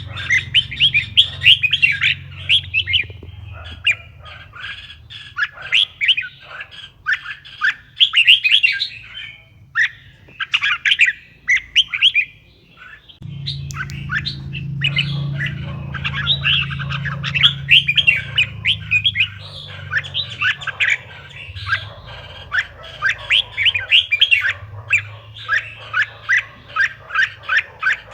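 Red-whiskered bulbul singing: runs of quick, chattering chirps with short pauses between phrases. A steady low hum sits underneath and grows louder about halfway through.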